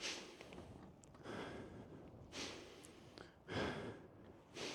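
A man breathing hard, a series of short audible breaths about a second apart, catching his breath after heaving a heavy motorcycle upright.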